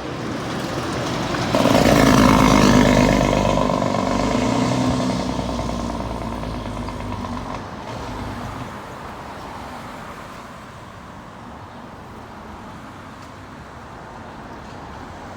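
A road vehicle's engine passing close by, swelling to its loudest about two seconds in and then fading away into quiet traffic background.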